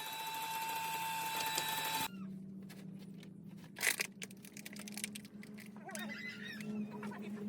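An electric power tool running at a steady high pitch, cutting off abruptly about two seconds in. Then a low steady hum with scattered light taps and one sharp knock.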